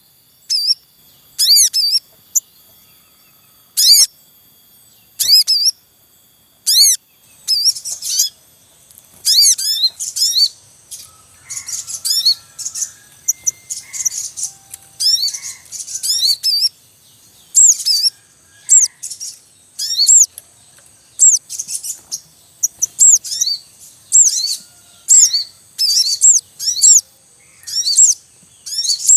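Sogon birds with young calling in a noisy wild chorus: rapid, high, sweeping 'cuit cuit' chirps come in short bursts. They are sparse at first and crowd together from about eight seconds in, with softer, lower notes among them.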